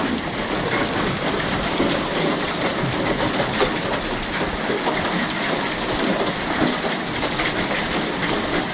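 Hailstones about the size of quarters falling with heavy rain: a steady, dense hiss dotted with many sharp clicks and knocks of stones hitting.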